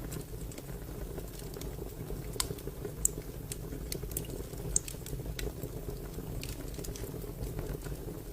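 Fire crackling: a steady low rumble of flames with irregular sharp pops and snaps, the loudest about two and a half, three, and nearly five seconds in.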